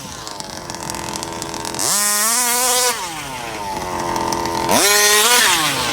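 Rovan 34cc two-stroke engine in an RC Baja buggy, first start and not yet run in, accelerating hard twice: the pitch falls away at first, climbs sharply to a high steady rev about two seconds in, holds for about a second and drops, then climbs again near the end. It comes instantly on the pipe, into the expansion chamber's power band.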